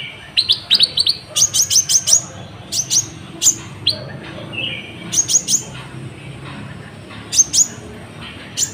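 A kolibri ninja sunbird singing: a run of sharp, high chirps, each sweeping quickly downward, delivered in rapid clusters of two to four notes with short pauses between.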